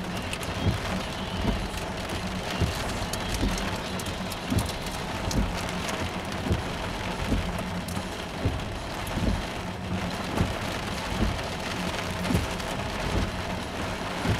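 Heavy rain pouring down on a vehicle, heard from inside it as a steady hiss, with a low thump coming about once a second.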